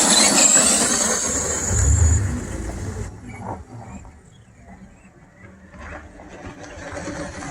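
Brushed electric motors and geartrains of two RC monster trucks whining at speed, loudest in the first couple of seconds, with a low rumble about two seconds in. The whine drops off sharply about three seconds in and stays faint before slowly rising again near the end.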